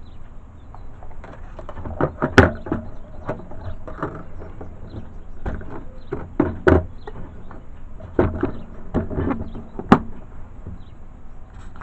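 Predator motion decoy box being handled and packed up: irregular knocks and clatter of its parts, with sharp knocks about two, seven and ten seconds in.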